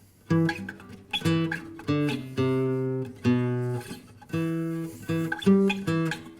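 Guitar playing a single-note riff, one plucked and held note after another, with faint string squeaks as the fingers slide along the wound low strings.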